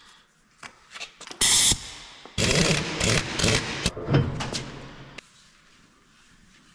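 Pneumatic impact wrench loosening the wheel nuts to take a tractor tire off: one short burst about a second and a half in, then a longer run of hammering that fades out.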